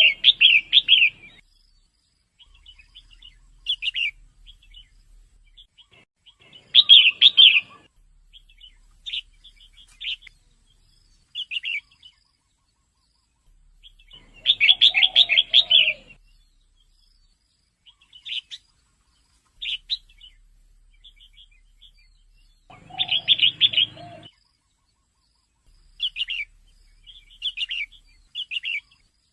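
Female red-whiskered bulbul calling: a chattering burst of quick notes about every eight seconds, with short single chirps in between.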